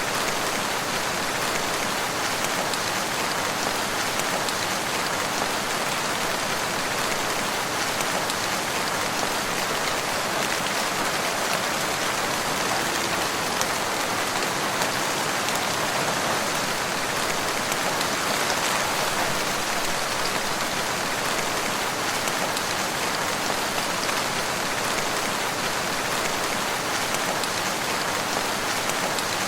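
Steady rainfall in a forest, an even hiss of drops pattering on leaves and ground.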